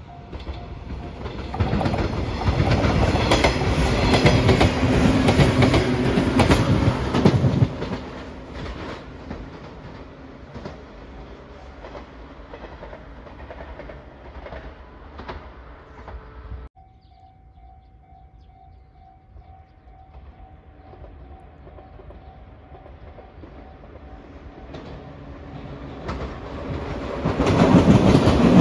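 A train passes over a level crossing, a loud rumble with wheel clatter over the rail joints, then fading to a lower rumble. After a sudden break, the level crossing's warning bell rings with a steady pulsing tone, and near the end another train approaches and grows loud.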